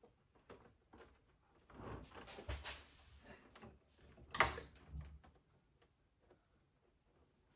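Handling noises while the coffee machine is being taken apart: scattered clicks and knocks, a clatter of parts about two to three seconds in, and one sharper knock about four and a half seconds in.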